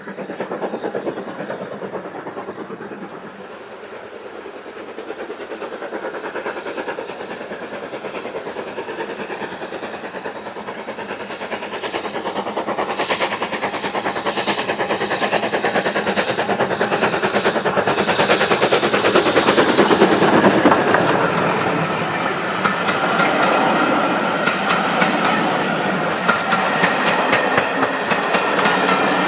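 Heritage railway train passing, its wheels clicking over the rail joints and growing louder as it nears. A thin squeal from the wheels joins in over the last several seconds.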